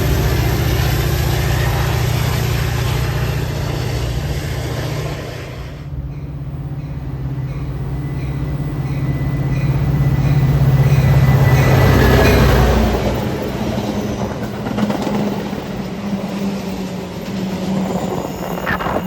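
A diesel-hauled train passing close by. The locomotive's engine is heard strongly, loudest about two-thirds of the way in, then fades suddenly, leaving the rolling noise of the cars on the rails.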